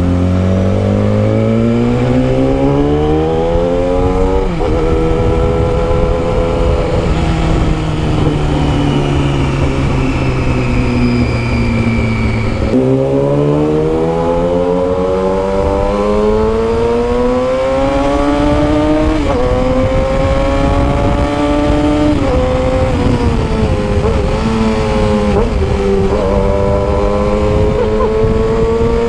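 Yamaha R6 600cc inline-four sport bike with a custom exhaust, ridden under way. The engine pitch climbs as it pulls, drops sharply at gear changes, and sinks slowly as the throttle eases, over a steady rumble.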